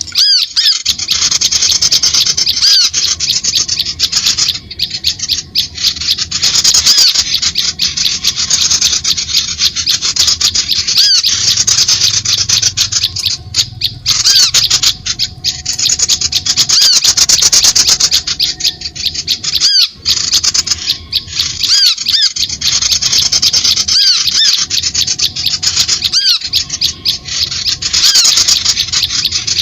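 Bird-lure recording of birds calling in a loud, rapid, continuous high-pitched chatter of very fast repeated notes, broken by brief pauses every few seconds.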